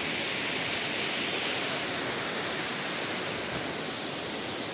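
Gega waterfall in Abkhazia: a steady, even rush of falling water, flowing strongly.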